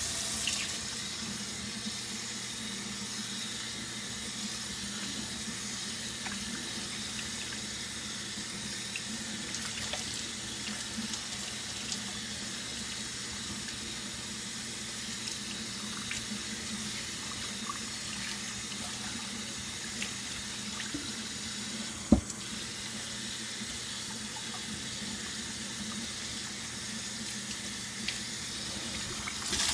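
Cold water running steadily from a tap into a sink as hair is rinsed under it, with a single sharp knock about two-thirds of the way through.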